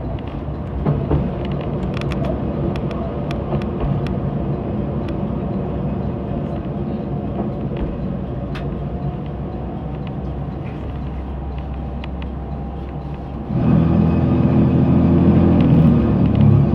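Train running with a steady low rumble and scattered clicks of wheels over rail joints. About 13.5 seconds in, a louder low hum with a few steady tones starts suddenly.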